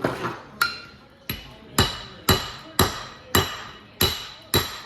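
Steady series of hammer blows on steel, about two a second, each ringing briefly: knocking a bearing race out of a TMR mixer gearbox, the race shrunk loose with a weld bead.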